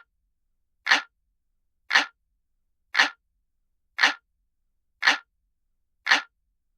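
Looped analog-clock ticking sound effect: a sharp, identical tick about once a second, with silence between ticks.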